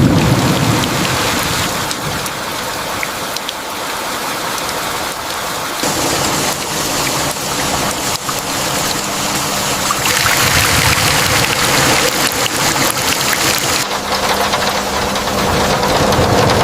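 Steady rain falling, a dense, even hiss that changes character abruptly about six, ten and fourteen seconds in.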